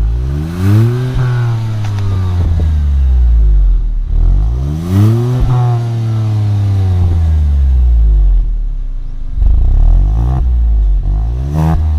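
Hyundai i20 N Line's 1.0-litre turbo three-cylinder petrol engine revved through its dual-muffler exhaust. It is revved twice in long sweeps, each rising and then falling back to idle, then given a few shorter throttle blips near the end.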